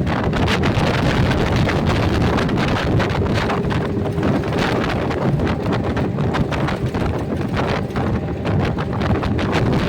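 Wind buffeting the microphone: a loud, continuous rumbling rush that flutters unevenly throughout.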